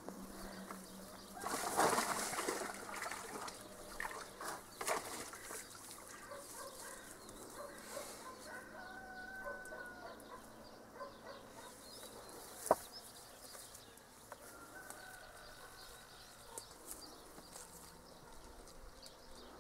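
Quiet outdoor ambience with short, thin bird calls now and then, a little rustling, and one sharp click about two-thirds of the way through.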